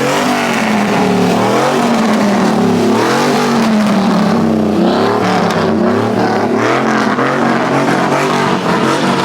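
A car engine revved over and over, loud throughout, its pitch rising and falling every second or so.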